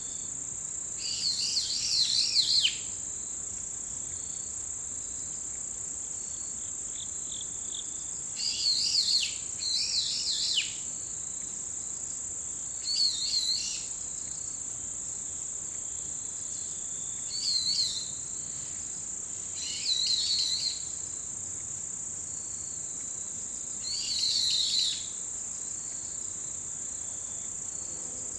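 Autumn insects trilling in a steady, high, unbroken chorus, with birds cutting in with short bursts of rapid chirping calls, seven in all, every few seconds.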